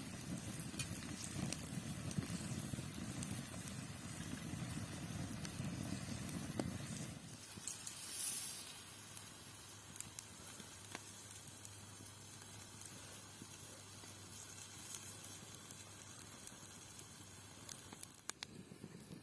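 Food frying and sizzling over an open fire, with crackles. The sizzle is fuller for the first seven seconds or so, then drops to a softer hiss with scattered ticks.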